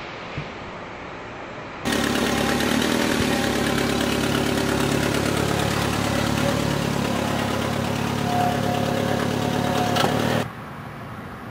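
An engine running steadily at an even pitch, beginning abruptly about two seconds in and stopping abruptly near the end.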